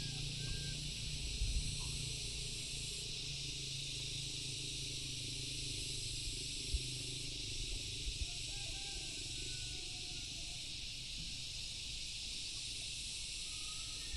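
A steady, high hiss of an insect chorus from the surrounding vegetation, with a few faint short bird calls.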